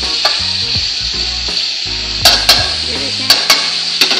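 Chicken and potato pieces sizzling steadily as they fry in masala in a steel pot, being browned before water goes in. A steel spoon stirs them, clinking sharply against the pot several times, mostly in pairs from about two seconds in.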